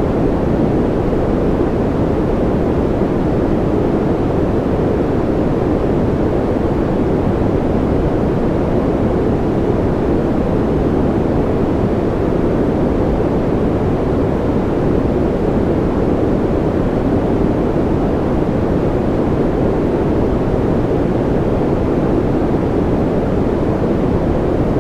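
Steady, unchanging sleep-noise track, a continuous rushing noise that is deep and muffled rather than hissy.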